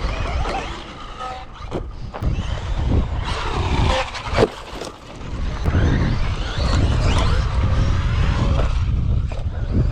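Traxxas Maxx V2 RC monster truck's brushless motor whining as it revs up and down under throttle. There is a sharp knock about four and a half seconds in.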